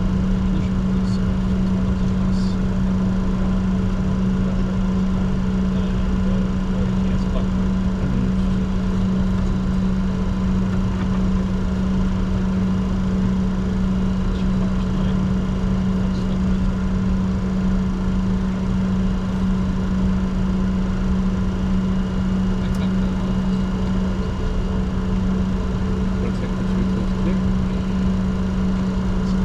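Steady drone inside a Bombardier Challenger 604 business jet's cockpit on the ground, with a strong, unchanging low hum and fainter steady whines above it.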